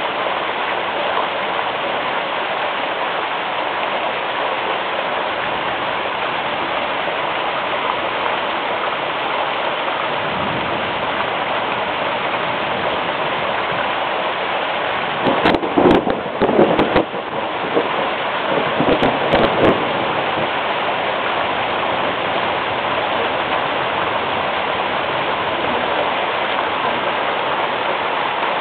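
Steady rain falling through a thunderstorm, an even hiss throughout. A little past the middle come two short, louder bursts a few seconds apart.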